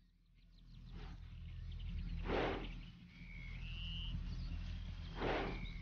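Birds calling in short whistled notes over a steady low hum, with two brief hissing bursts, about two and five seconds in.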